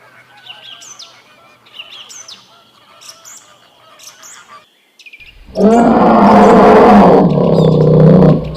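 Small birds chirping faintly, then, after a sudden cut, a loud, drawn-out animal call about three seconds long, with a bending pitch.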